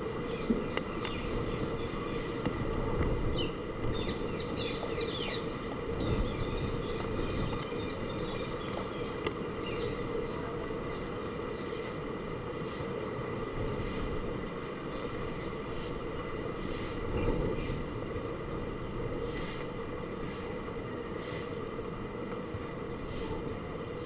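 Heavy typhoon rain and wind make a steady rushing noise that swells in gusts. Birds chirp a few seconds in and again around ten seconds in.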